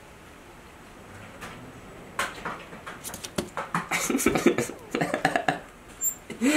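A rapid, irregular clatter of knocks and rattles, starting about two seconds in and thickest in the middle: a feeding snake thrashing and whipping its tail against its enclosure.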